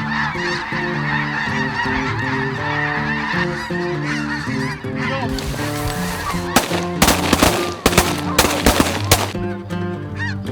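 A large flock of snow geese calling, many high honks overlapping. In the second half comes a rapid volley of shotgun shots, about eight in under three seconds.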